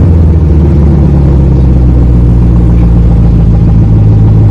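2017 Camaro SS's 6.2-litre V8 idling steadily just after starting, through a factory X pipe and new single-chamber V-tube mufflers on a custom axle-back dual exhaust.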